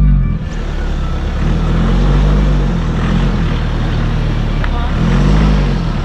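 Ford Transit van's engine moving at low speed, its pitch rising and falling a few times as it gently accelerates and eases off, over a steady low rumble.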